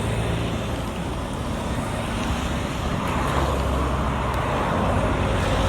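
Steady road traffic noise, with vehicle engines running. A vehicle grows louder about three seconds in.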